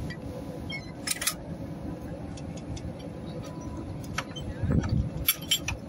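Narrow-gauge train running: a steady low rumble with scattered clicks and knocks, a cluster of them near the end.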